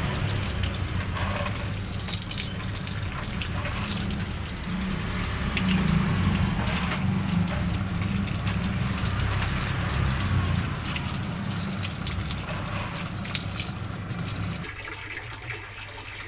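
Running water pouring and splashing steadily, dropping abruptly in level near the end.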